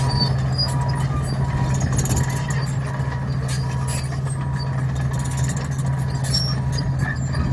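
Komatsu D61 bulldozer's diesel engine running steadily with a deep hum, its reversing alarm beeping about twice a second. Scattered sharp clicks and clatter sound over the engine.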